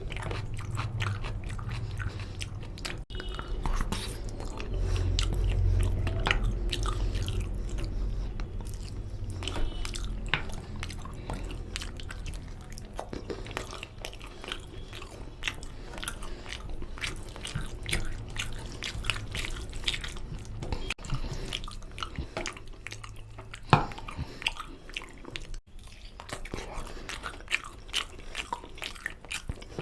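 Close-up eating sounds of mutton nalli curry with rice and bones: steady chewing and biting with many small crunches and wet clicks. A low rumble sits under the first third, and one sharp click about three-quarters through is the loudest sound.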